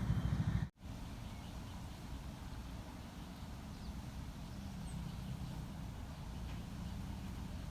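Steady low outdoor rumble, with a sudden momentary drop to silence less than a second in.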